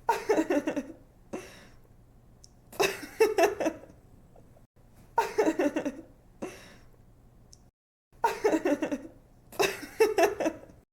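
A young woman laughing in five giggling bursts of quick 'ha-ha' pulses, with short pauses between them, over a faint low hum.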